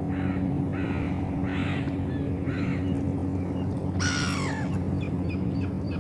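Seagulls calling: four short cries in the first three seconds, then a louder, falling call about four seconds in, over a steady low hum.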